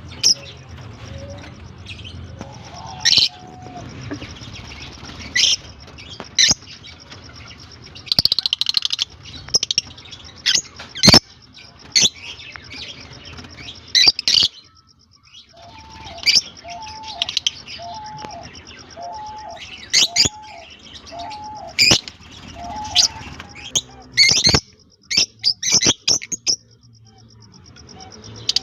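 Fischer's and blue masked lovebirds chirping: short, sharp, high-pitched calls at irregular intervals, some in quick runs.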